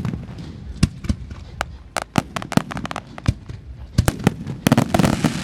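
Fireworks display going off: sharp bangs at irregular intervals, a few a second, thickening into a rapid crackle of pops near the end.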